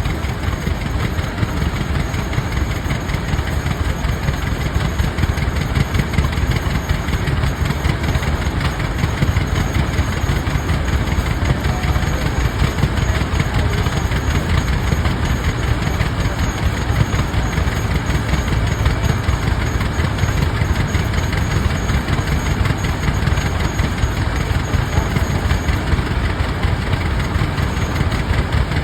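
Rumely OilPull tractors' two-cylinder engines running steadily while belted to a sawmill.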